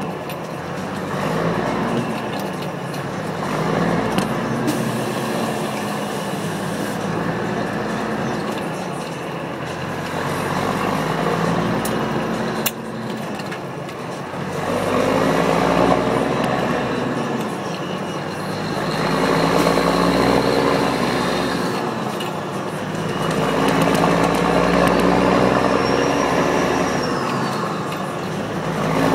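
Straight-piped Caterpillar 3406E six-cylinder diesel in a Kenworth W900L revving up and falling back several times, each climb lasting a few seconds. A high whistle rises and falls near the end.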